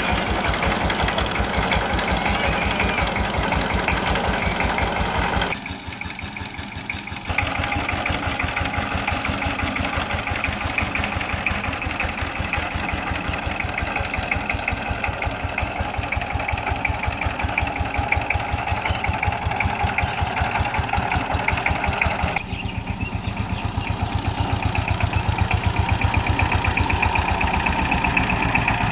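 Saifing 12-horsepower single-cylinder diesel engine of a two-wheel power tiller running with a steady, rapid chugging beat. It drops in level briefly about five seconds in and grows a little louder near the end.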